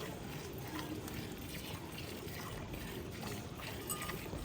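Steady rain with water trickling and pouring, and many small drops landing.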